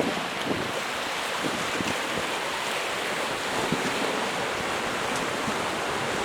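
Steady wash of sea waves on the shore, mixed with wind.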